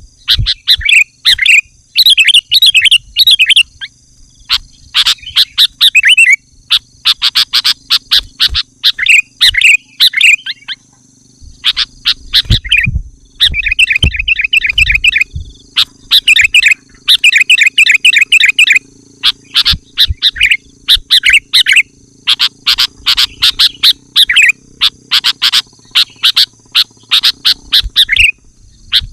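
Sooty-headed bulbul singing loudly and without let-up: quick, chattering phrases of about a second each with short pauses between, in full song as used to lure other bulbuls.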